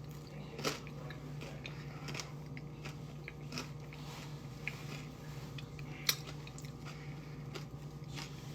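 Someone chewing crunchy crackers topped with pickle dip: a scatter of crisp crunches, with a steady low hum underneath.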